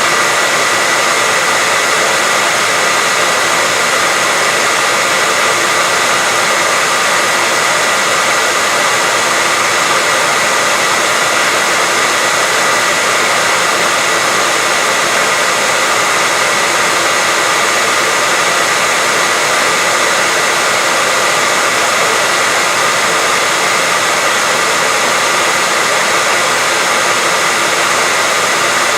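Steady white-noise track: an even, unbroken hiss weighted toward the highs, with a faint steady high whine running through it, like a hair dryer or fan.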